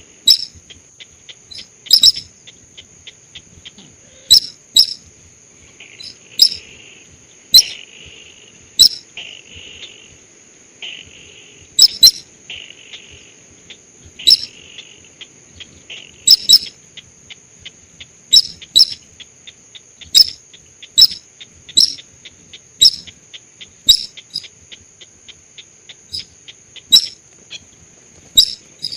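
Bird-lure recording of the sintar sawah, a rice-field bird: sharp, short, loud calls, often in quick pairs, repeating every one to two seconds. Under them run a steady high insect trill and a rapid faint ticking.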